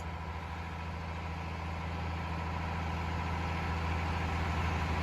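Cat 352 excavator's diesel engine running steadily with a low hum, slowly growing louder as the machine starts to lift.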